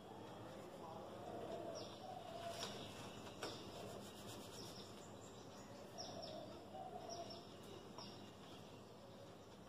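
Faint bird calls: short high chirps falling in pitch, coming in little runs every second or so, with one brief click about three and a half seconds in.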